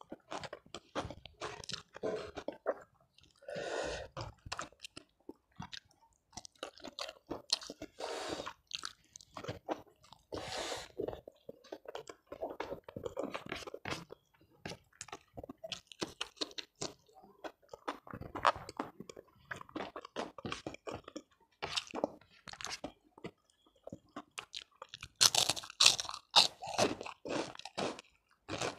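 A person chewing food close to a clip-on microphone, with frequent crisp crunches and clicks and no speech. The crunching grows louder for a couple of seconds near the end.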